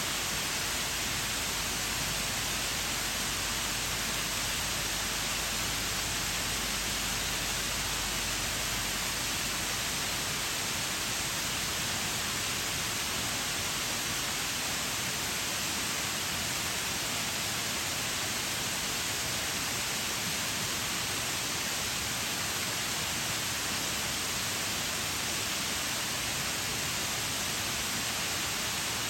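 Shiraito waterfall: a steady rush of falling water, a dense, even hiss with no change in level.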